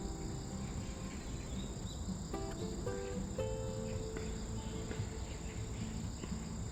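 Autumn grass insects chirping steadily in a high, continuous chorus.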